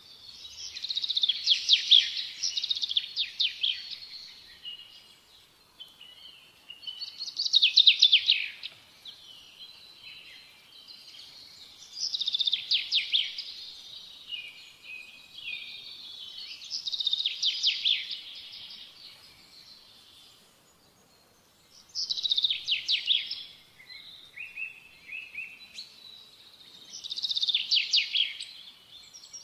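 A songbird singing: high, rapid trilled phrases a few seconds long, repeating about every five seconds with quieter twittering between them.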